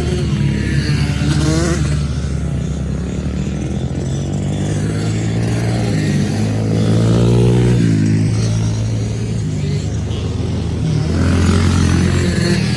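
Small kids' dirt bike engines running on a motocross track. One engine revs up to a higher pitch about six seconds in, holds it for about two seconds, then eases off, and the engine noise swells again near the end.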